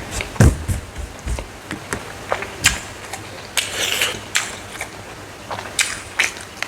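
Close-miked chewing and crunching of dry smoked frog: irregular sharp crackles and clicks, with a heavier thump about half a second in and a brief rustly crunch near the middle.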